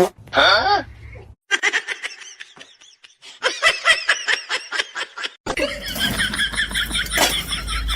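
People laughing in rapid, repeated bursts, broken by abrupt cuts; a short gliding squeal comes about half a second in.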